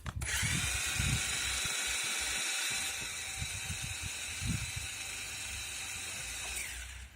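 Syma X8 quadcopter's motors and propellers running with a steady whining buzz, starting suddenly and cutting off near the end.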